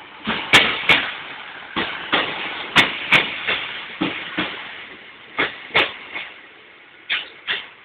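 Slow-moving train's wheels clicking over rail joints: paired clacks, one for each wheelset of a bogie, repeating every couple of seconds over a low rumble.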